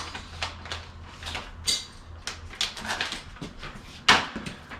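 Scattered clicks and clanks of sheet-metal furnace parts being handled, with one sharp knock about four seconds in, over a low steady hum.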